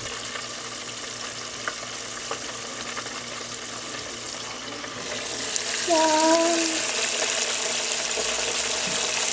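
Battered pickles deep-frying in hot oil, a steady sizzle that grows louder about six seconds in. A short voice-like sound is heard at about that moment.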